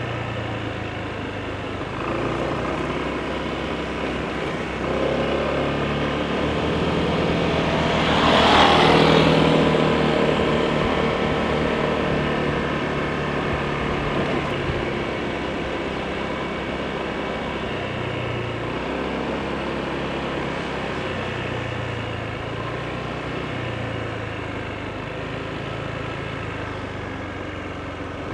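Honda PCX scooter's single-cylinder engine running under way, its pitch shifting as the speed changes, with wind and road noise. About eight seconds in, a louder rushing swell rises and fades over a couple of seconds.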